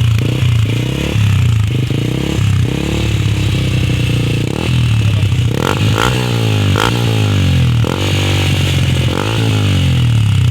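Yamaha Sniper 150's single-cylinder four-stroke engine through a Mody5 aftermarket exhaust, revved repeatedly from idle, its pitch rising and falling several times with a bassy exhaust note. A few sharp pops come off the pipe about halfway through.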